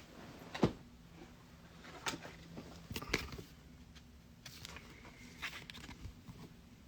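Trading cards being handled on a table: a scatter of light taps and slides as cards are set down and sorted.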